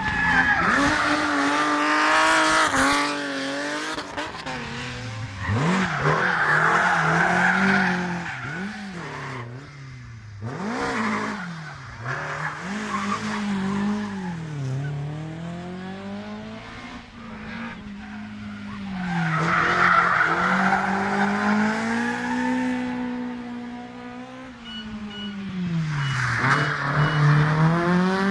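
Rally cars driving hard through a stage. Their engines rev up and drop again and again through gear changes and braking, with tyres squealing at times. The loudest moments come near the start, about six seconds in, about twenty seconds in and near the end.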